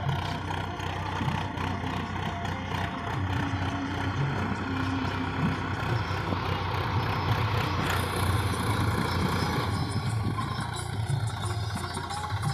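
Swaraj 855 tractor's diesel engine running steadily.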